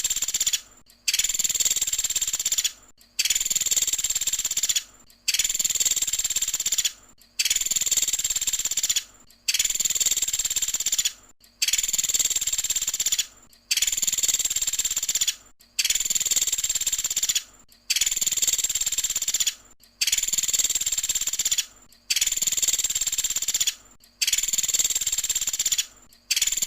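Pelatuk sampit woodpecker calling: a rapid, high-pitched trilling rattle (the fanciers' 'tembakan'). Each burst lasts about a second and a half and repeats evenly about every two seconds, with short silent gaps, as a looped call recording.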